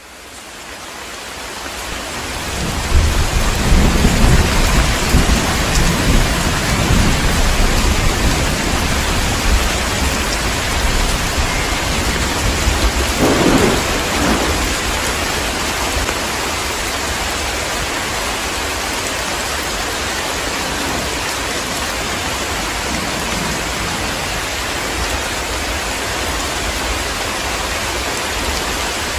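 Heavy rain with thunder, fading in at the start. A long low rumble of thunder rolls through the first several seconds, another louder thunderclap comes about halfway, and then the rain goes on steadily.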